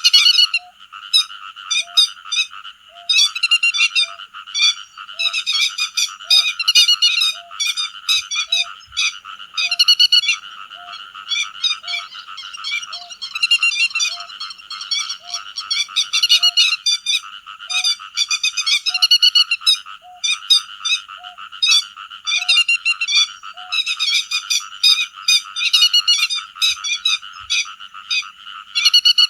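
Grey-headed lapwings calling as a flock: many sharp, rapidly repeated notes over a dense chorus. A fainter low note repeats about once a second until near the end.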